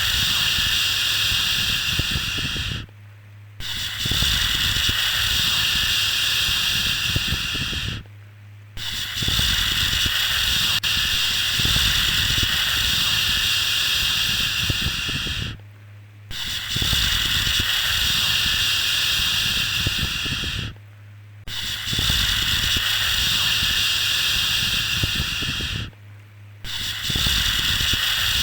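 Long drawn-out 'shhh' shushing, one held hiss of about five seconds after another, each broken by a short pause, with a steady low hum beneath.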